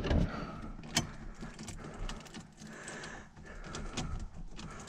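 Faint clicks and rustling with one sharp click about a second in; no engine is running yet.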